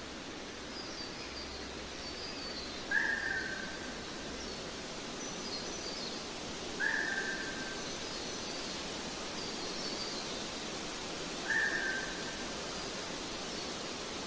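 Forest ambience: a steady hiss with faint, high bird chirps scattered through it. Three times a louder short whistled note sounds, falling slightly, about three, seven and eleven and a half seconds in.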